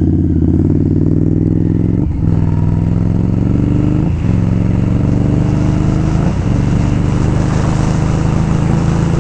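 Indian Scout V-twin motorcycle engine pulling under acceleration, its note rising, with quick upshifts about two, four and six seconds in. Wind rushes over the helmet microphone.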